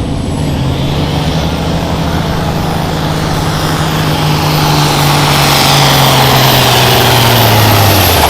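Hot farm diesel tractor at full throttle pulling a sled. Its engine note sinks steadily as the load builds and the engine bogs down, growing louder over the last few seconds. A high whistle rides above the engine, and both stop abruptly near the end.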